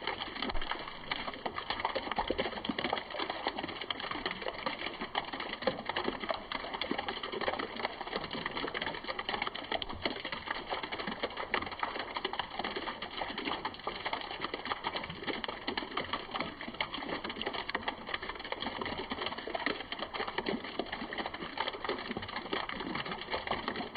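Rain falling in a steady, dense patter of many small drops.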